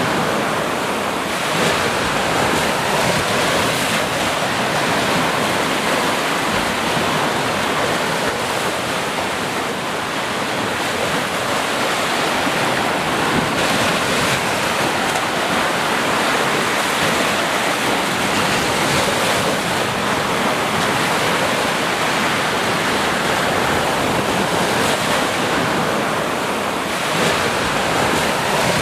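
Sea surf: waves breaking and washing ashore in a steady, even rush with only slight swells.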